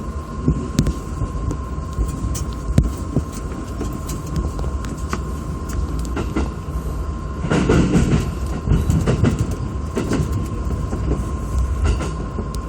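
Electric commuter train running on the rails, heard from inside the car: a steady low rumble with a thin steady whine, and wheels clicking over rail joints. The rumble gets louder and rougher for a couple of seconds about halfway through.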